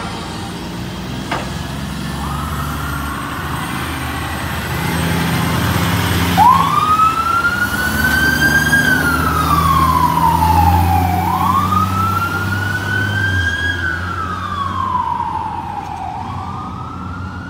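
Fire apparatus siren wailing, rising quickly and falling slowly in pitch, about three times. A fainter siren sounds about two seconds in, and a diesel engine rumbles beneath as the rig passes.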